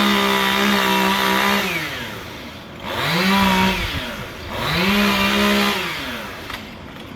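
Two-stroke chainsaw revved up to full throttle and let back down to idle three times: one long rev, then two shorter ones.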